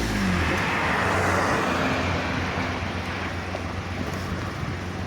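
Exhaust of a Honda N-WGN's 660 cc three-cylinder engine, its revs falling away just at the start, then running on at a steady low idle under a hiss that slowly fades.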